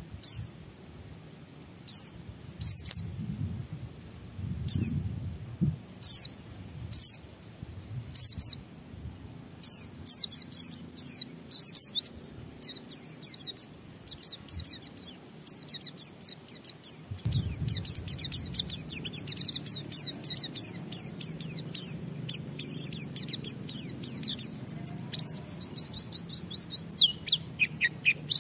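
White-eye (pleci) singing, starting with spaced sharp, falling chirps and breaking into a fast, continuous twittering song about ten seconds in, with a rapid trill near the end. This is the sustained full-volume 'ngalas' song style that keepers play to set other white-eyes singing.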